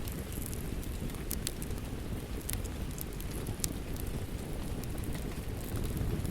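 Wood fire crackling with scattered sharp pops over a steady, dense low rumble of rain.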